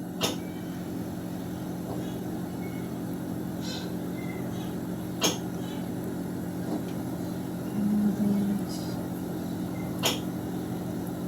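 A steady low machine hum with three sharp clicks about five seconds apart and a brief low tone about eight seconds in.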